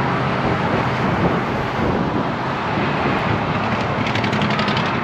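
Steady rushing wind noise on the microphone of a camera riding on a moving road bike, buffeted by strong gusty wind.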